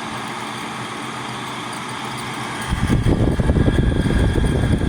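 Haier 5,000 BTU window air conditioner running with a steady hum, its evaporator clogged with dirt and freezing over for lack of airflow. About three seconds in, a loud, irregular low rumble suddenly takes over.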